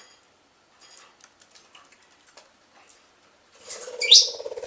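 Budgies making light scattered clicks and scratches, then a burst of rapid wing flapping about three and a half seconds in as a budgie flies, with a sharp rising chirp in the middle of it.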